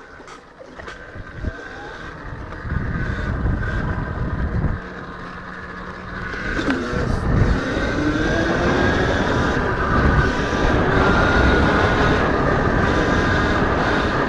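Electric dirt bike getting under way and picking up speed: its motor whine rises and grows louder, over a low rumble of wind on the microphone.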